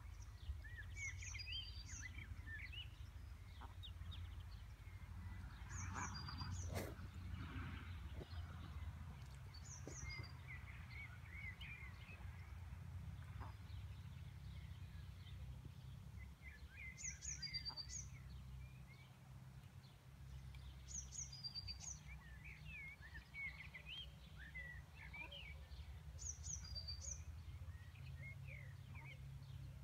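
Small birds singing: a short high song phrase comes back every four or five seconds, with scattered chirps between, over a steady low rumble. A single sharp click about seven seconds in.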